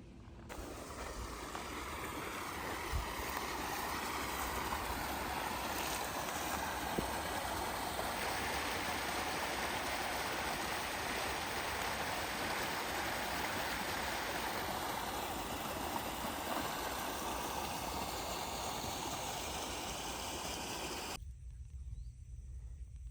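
Steady rush of running water, starting abruptly just after the start and cutting off shortly before the end.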